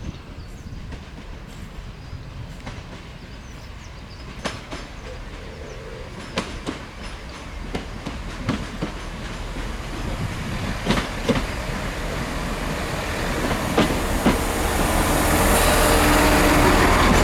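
A train approaching along the line, growing steadily louder, with scattered sharp clicks from its wheels on the track.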